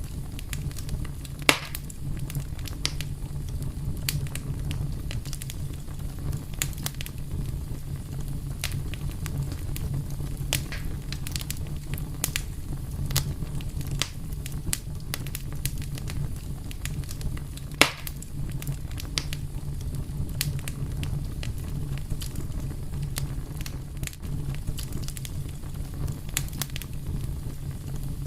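Wood fire burning steadily with a low rumble and scattered crackles, and two loud pops, one about a second and a half in and one a little past halfway.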